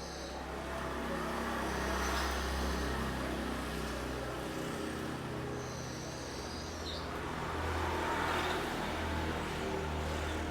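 Road traffic passing twice, swelling and fading, over a steady low hum. About six seconds in there is one high, buzzy call of about a second that drops at its end, from a cucak cungkok songbird.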